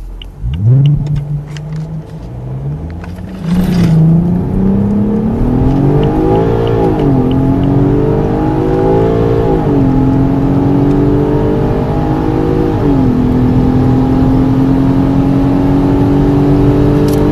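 Car engine accelerating hard from a standstill, its pitch climbing through each gear and dropping sharply at three upshifts a few seconds apart, then settling into a steady, slowly rising drone at speed.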